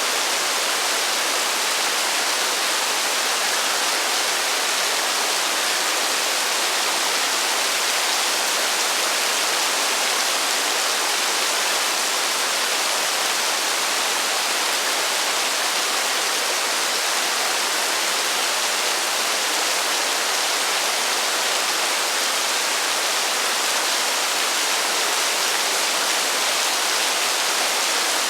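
Heavy rain falling as a steady, even hiss, mostly high and airy with little bass, with no thunder.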